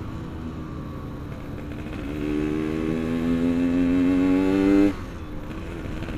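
Yamaha RX-King's two-stroke single-cylinder engine under way; about two seconds in it pulls harder, the revs climbing steadily for about three seconds, then it drops off suddenly back to a lower, quieter note.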